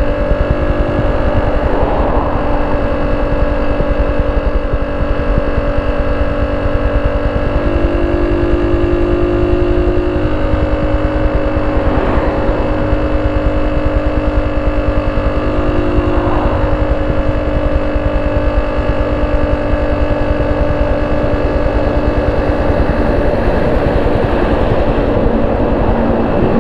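Honda C70's small single-cylinder four-stroke engine idling steadily through a banana-style (pisang) exhaust, a fast, even putter with no revving.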